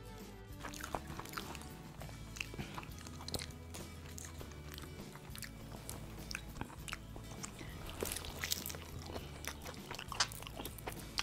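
A person biting and chewing crispy breaded fried chicken close to the microphone, the coating crunching in many sharp crackles, over quiet background music.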